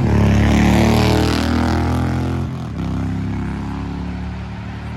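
Motorcycle engine running loud, its pitch falling over the first couple of seconds, then running lower and fading away.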